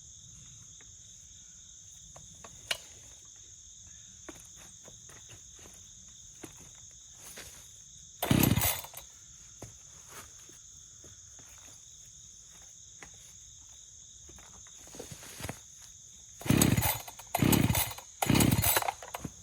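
Echo CS-590 chainsaw being pull-started by hand: four short, loud bursts from the recoil starter, one about eight seconds in and three in quick succession near the end, each under a second, with the saw not settling into a steady run. Crickets trill steadily underneath.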